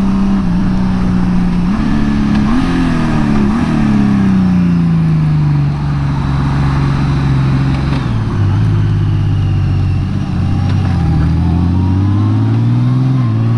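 2018 Honda Gold Wing's flat-six engine running under way, its pitch rising in a couple of steps about two to four seconds in, falling steadily over the next few seconds, then climbing again near the end.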